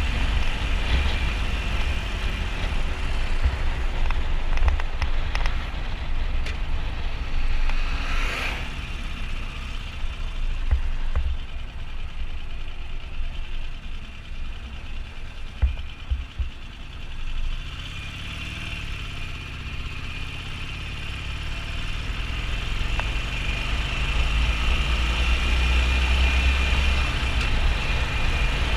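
Riding noise of a Harley-Davidson XL1200N Sportster's 1200 cc V-twin: a steady engine rumble under wind rushing over the mounted camera's microphone. It drops in loudness through the middle and builds up again near the end.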